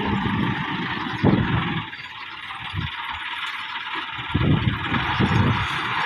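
Massey Ferguson 375 tractor's Perkins diesel engine running while pulling a heavily loaded trolley. The low engine sound drops away for about two seconds in the middle, then comes back.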